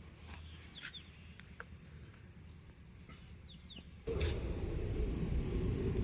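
Faint bird chirps over quiet background. About four seconds in, a loud, steady low engine rumble of a running vehicle starts abruptly.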